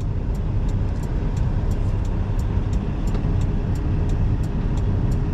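Semi-truck diesel engine idling with a steady low rumble, while the hazard-light flasher ticks evenly at about three ticks a second.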